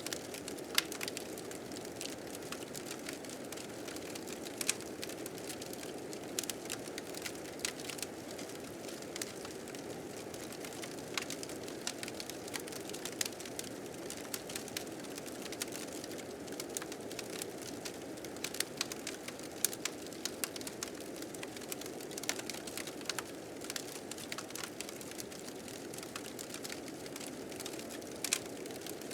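A fire crackling with frequent irregular snaps, over the steady rushing of blizzard wind.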